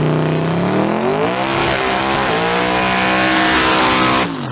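Turbocharged drag-racing truck's engine pulling hard at full throttle: the pitch climbs, drops once about two seconds in at a gear shift, climbs again and holds high, then falls away near the end.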